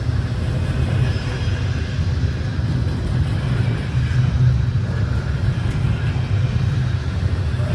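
Steady low rumble of a train in motion, even throughout with no distinct clicks or horn.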